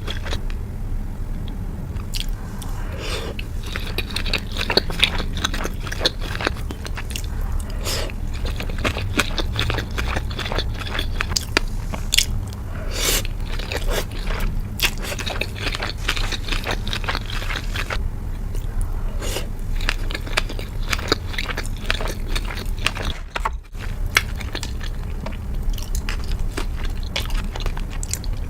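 Close-miked ASMR eating sounds of a person biting and chewing sushi and sashimi: wet smacks and crunchy bites, with many small clicks, over a steady low hum.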